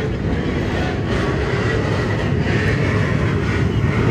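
Steady low rumble of vehicle engines and road noise, with no distinct events; the level rises slightly toward the end.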